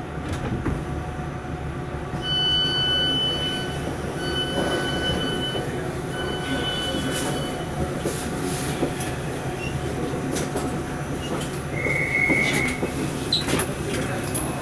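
Steady low hum inside a stationary Class 455 electric multiple unit at a station platform. Three long electronic beeps sound about two, four and six seconds in, and scattered clicks and knocks follow.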